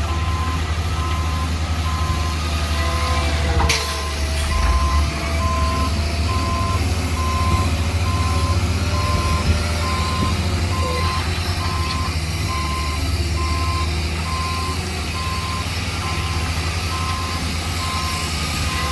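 A heavy construction vehicle's reversing alarm beeps steadily, about once a second, over the low rumble of its diesel engine. There is a single sharp clank a few seconds in.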